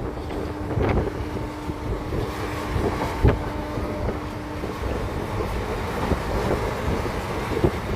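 Passenger train running, heard from on board: a steady rumble of wheels and carriage with wind on the microphone, broken by a few sharp knocks, the loudest about three seconds in.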